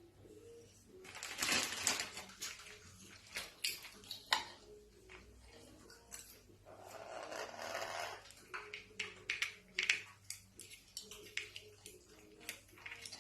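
Pet parrot making scattered short clicks and brief squawk-like noises, irregular and fairly faint.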